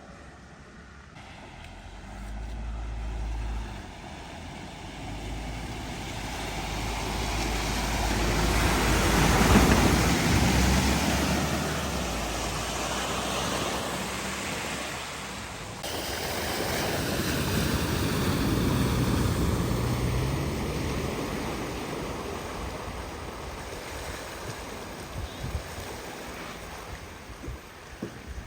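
Vehicles driving through deep floodwater: a low engine rumble and the rushing spray of water thrown up by the wheels, swelling as a vehicle passes and fading away, twice over.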